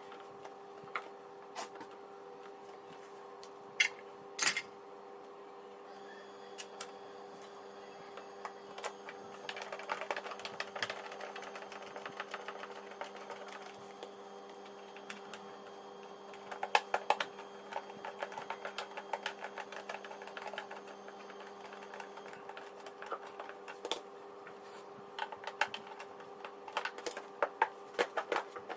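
Scattered clicks, taps and light rattles of a vacuum cleaner's plastic parts being handled and fitted back together during reassembly, coming in bunches. A steady hum runs underneath.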